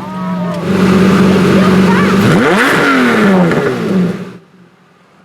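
Engine revved hard: it is held high and steady for about a second and a half, then blipped up and back down. The sound cuts off abruptly about four seconds in.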